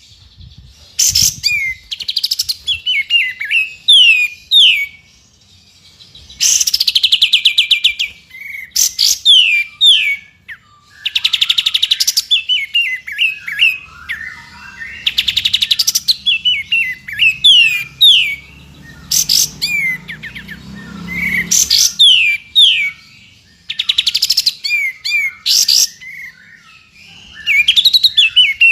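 Songbird tutor song of 'tembakan' phrases for white-rumped shamas to learn: loud rapid ringing trills alternating with runs of short, high, downward-sweeping whistles, phrase after phrase with brief pauses.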